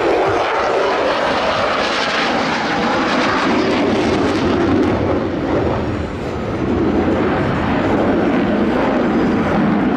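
F-16 fighter jet flying overhead during its demonstration, its engine noise a loud, steady roar that dips briefly about six seconds in.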